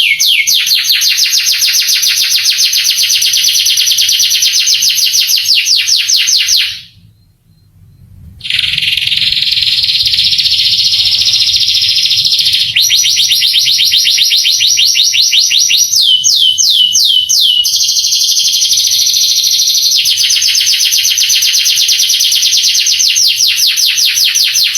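Canary singing a long song of rapid high trills, with a short break about seven seconds in and a brief run of downward-sliding notes about two-thirds of the way through.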